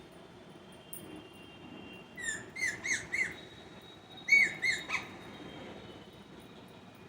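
Pet parrot giving short, sharp squawking calls in two quick bursts, about four calls a little over two seconds in and three more around four and a half seconds.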